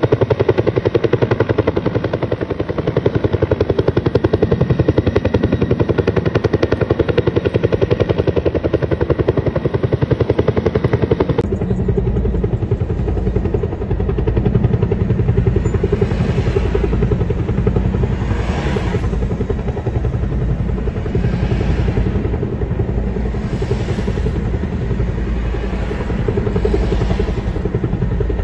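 Helicopter running close by, its rotor blades beating in a fast, even rhythm. The sound changes abruptly about eleven seconds in, becoming deeper and heavier, with slow swells in the higher range after that.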